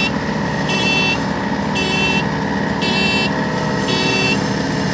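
A combine harvester's diesel engine runs steadily while a high electronic warning beeper sounds about once a second, each beep lasting about half a second.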